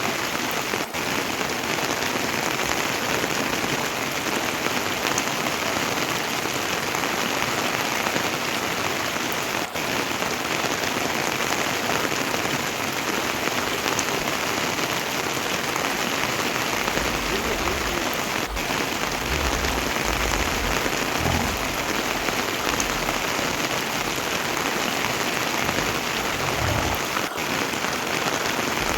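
Heavy rain falling steadily, a dense even hiss that holds at one level throughout.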